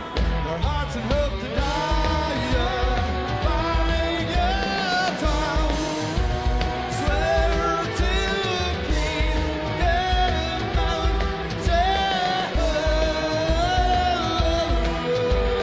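Rock band playing live: a sung lead vocal melody over electric guitars, bass and a steady drum beat.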